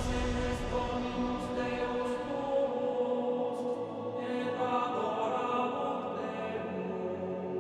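Background music: slow, sustained choral or chant-like tones, held in layered chords that shift a few times.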